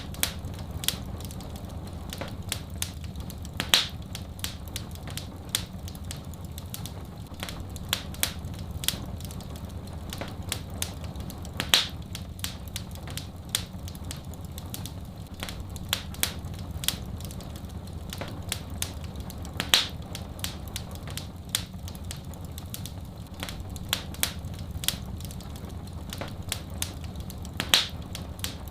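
Wood fire in a fireplace crackling, with many sharp pops and snaps over a steady low rumble. The loudest pops come about every eight seconds.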